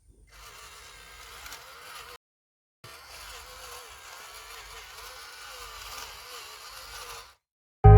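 Faint small electric motor running with a steady whir and a wavering whine, broken off sharply twice by cuts. Loud guitar music comes in right at the end.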